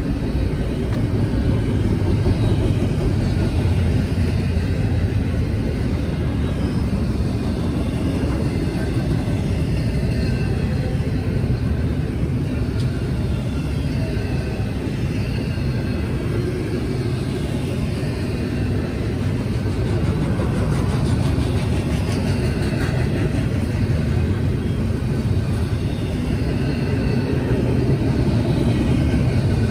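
Double-stack intermodal container train rolling past, a steady rumble of its well cars' wheels on the rails.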